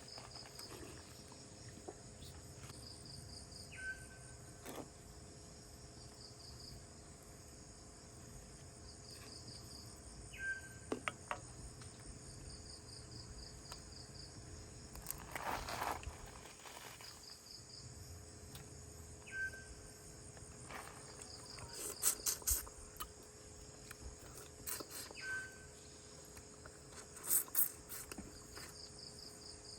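Forest insects chirping in a steady chorus, with pulsed chirps repeating every second or two and a short clear call heard four times. Scattered clicks and knocks, in bursts near the end.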